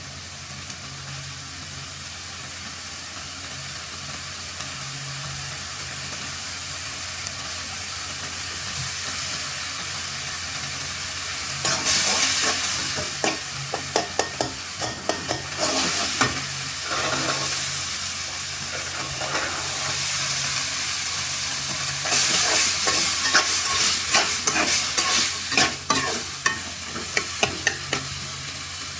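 Chickpea curry sizzling in a frying pan with a steady hiss. A spoon stirs and scrapes against the pan in two busy spells, starting about twelve seconds in and again about twenty-two seconds in.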